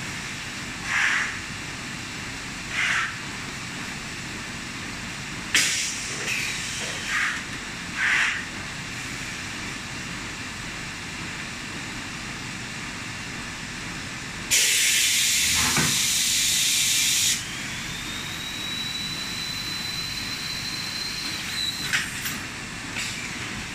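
Refrigerator door gasket welding machine at work: a few short puffs and clicks in the first third, then a loud burst of air hiss lasting about three seconds. A steady high tone follows for about four seconds, ending in a click.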